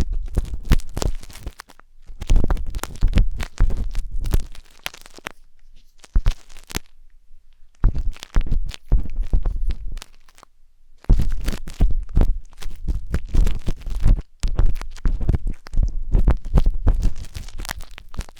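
Wooden tanghulu skewer scraping and rubbing inside the silicone ear of a 3Dio binaural microphone: close, dense crackly scratching in bursts, with two short pauses in the middle.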